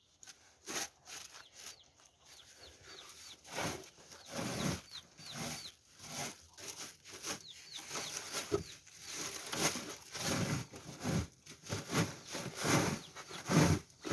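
Chicks peeping in short high chirps over irregular scraping and rustling as wet, dirty litter is cleared out of a brooder, the scraping getting louder toward the end.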